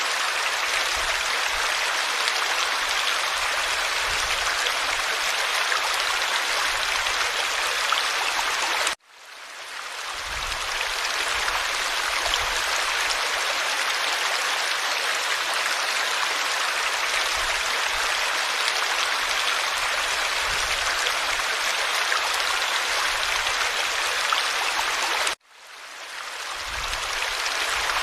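Forest stream flowing, a steady rush and babble of water. The sound cuts out suddenly twice, about a third of the way in and near the end, and fades back up over a second or two each time.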